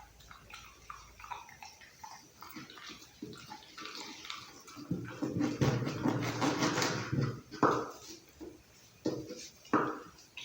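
A pit bull chewing raw meat close to the microphone: small wet chews and crunches at first, then about two seconds of louder, dense, wet chewing around the middle, followed by a few separate sharp crunches.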